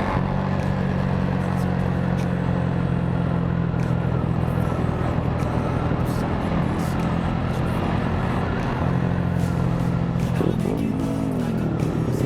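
Motorcycle engine running at a steady speed, with road and wind noise; about ten seconds in, the engine pitch swings up and down briefly before settling again.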